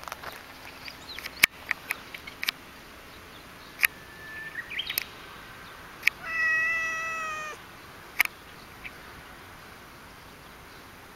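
A domestic cat gives one drawn-out meow at a steady pitch, lasting about a second, about six seconds in. Brief sharp clicks and a few short chirps are scattered around it, the loudest click about a second and a half in.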